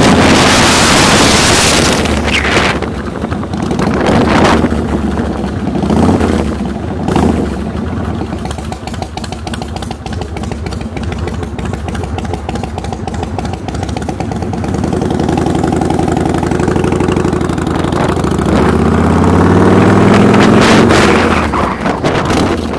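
Motorcycle engine running as the bike rides along, with loud wind rush on the microphone at first. Near the end the engine note climbs as it accelerates, then eases off.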